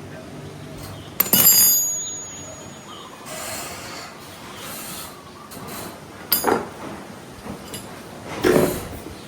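Hard metal knocks while an air compressor is worked on: a loud clank about a second in that rings briefly, then two softer knocks near the end.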